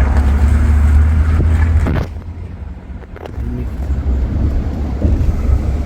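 Low rumble of a motor vehicle, loudest for the first two seconds, then dropping off sharply and building back up a second or so later.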